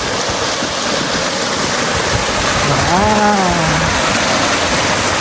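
Steady, loud rushing noise throughout. About three seconds in, a person's voice gives one drawn-out sound lasting about a second that rises and falls in pitch.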